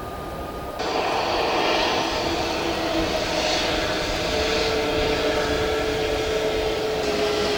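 Airliner's engines running close by: a steady whine over a rushing noise, starting suddenly about a second in.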